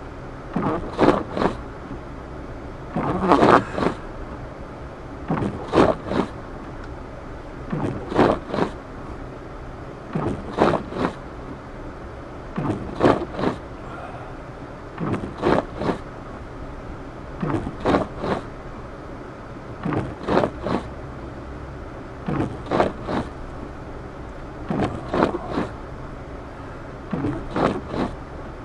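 Car windshield wipers sweeping back and forth across a snowy windshield, a paired scrape about every two and a half seconds, over the steady low hum of the car driving.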